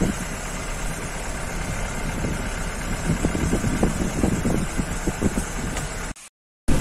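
A vehicle engine running steadily with rumble and irregular low thumps from the ride; the sound cuts out for about half a second near the end.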